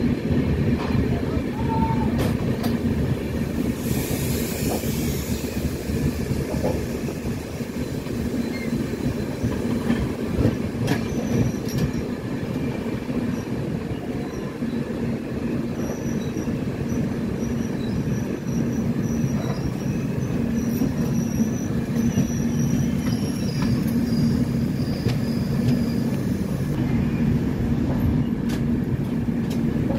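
Passenger train running along the track, heard from the doorway of a moving coach: a steady rumble of wheels on rails, with scattered clicks at rail joints. Faint high wheel squeal comes and goes in the second half.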